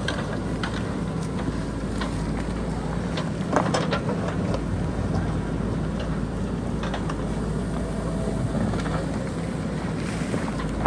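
JCB backhoe loader's diesel engine running steadily, with scattered clanks and knocks of the bucket working among rock, the loudest about three and a half seconds in.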